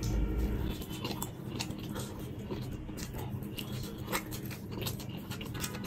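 A man biting and chewing a pizza slice close to the microphone: a run of short, sharp wet clicks and smacks from his mouth over a steady low background.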